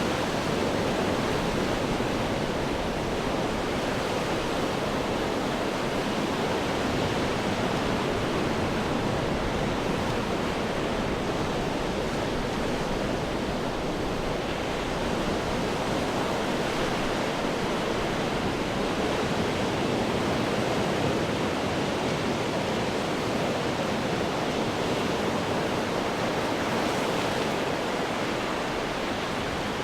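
Ocean surf breaking on rocks: a continuous rush of churning water that swells and eases a little, with no single crash standing out.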